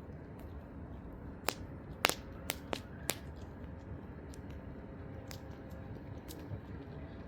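Campfire burning: a steady low rush with sharp crackles and pops of burning wood, the loudest cluster of pops between about one and a half and three seconds in.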